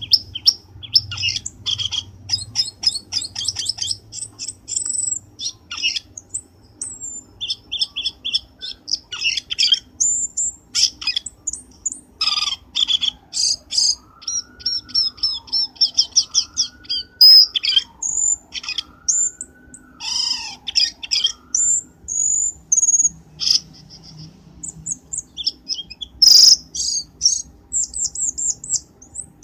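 Cucak keling bird-lure call recording: a dense run of sharp chirps, rapid trills and high whistled notes, with a lower wavering whistle weaving up and down through the middle.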